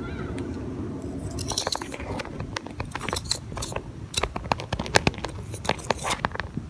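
Knife scraping and cutting the soft white pith out of the inside of a fresh gourd, a run of irregular crunchy scrapes and clicks as the flesh is hollowed out.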